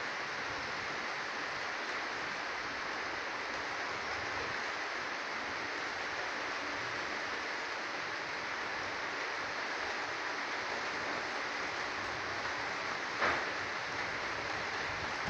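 Steady rushing hiss of an approaching rainstorm, heavy rain falling across the trees and hillside, with one brief louder rush near the end.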